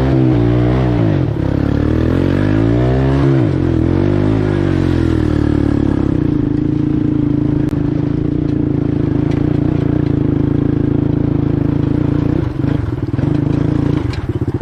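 ATV engine revving up and down several times over the first few seconds, then running at a steady pitch while under way.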